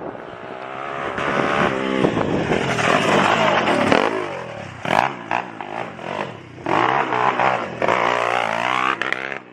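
Small motorbike engine revving, its pitch climbing and dropping several times as the throttle is opened and closed.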